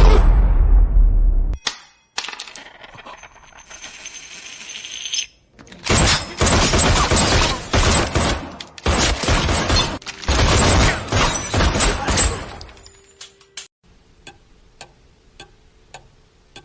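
A run of separate sound effects: a loud boom that dies away over about a second and a half, then a long stretch of loud rattling clatter, and near the end a faint, even ticking of about three ticks a second, like a clock.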